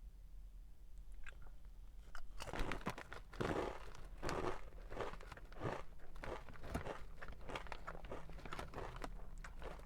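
A person biting and chewing microwave pizza close to the microphone. The crunching starts about two seconds in and goes on in quick, irregular bites.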